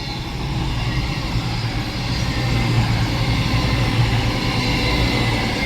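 CrossCountry Class 221 Super Voyager diesel multiple unit passing through the station, its underfloor diesel engines and wheels on the rails making a steady loud rumble that builds over the first second and then holds.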